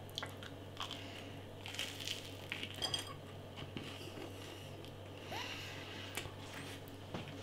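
Faint biting and chewing of toast topped with chocolate sprinkles: a scattering of small clicks and crunches.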